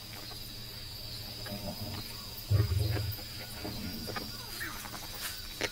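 Lion giving a short low growl about two and a half seconds in, over a steady trill of night insects, with faint scattered small sounds around it.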